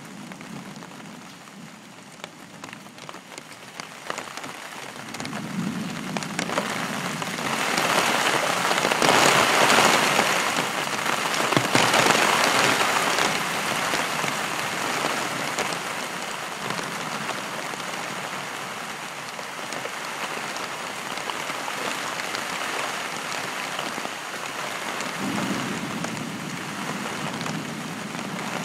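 Heavy thunderstorm rain. It grows louder from about four seconds in to a peak around ten to twelve seconds, then settles into a steady downpour.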